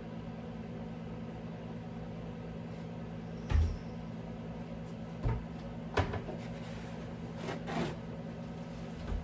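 Five separate knocks and clunks of things being handled during fridge cleaning, the longest and noisiest near the end, over a steady low hum.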